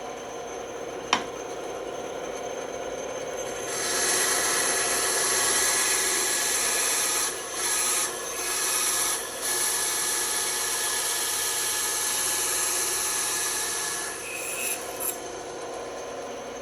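Band saw running, its blade cutting through wood from about four seconds in until about fourteen seconds, with three brief breaks in the cut. A sharp click about a second in.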